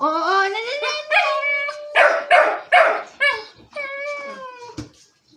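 Dog begging for food with drawn-out whining cries: a long whine rising at the start, a run of short yips and barks in the middle, and a long falling whine near the end.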